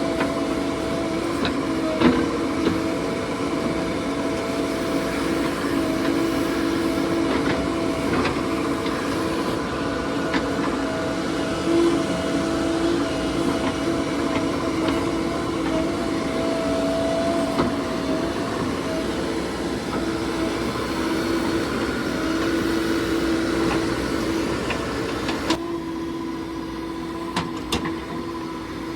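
Heavy diesel earthmoving machinery running steadily, with a droning engine note and a few light knocks. About twenty-five seconds in the sound changes abruptly and the hiss drops away, leaving the engine drone.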